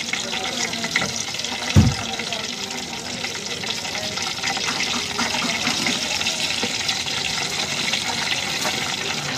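Hot oil sizzling and crackling steadily as sausages and chips deep-fry in a wire-mesh basket. A single low thump comes about two seconds in.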